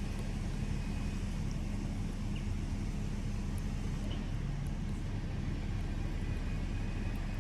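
Motor vehicle engine running with a steady low hum, as from road traffic.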